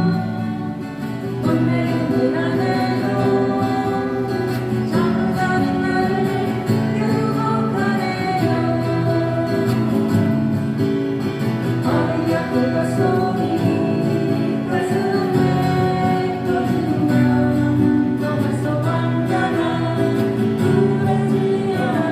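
Acoustic guitars playing a song live, strummed and plucked, with a voice singing.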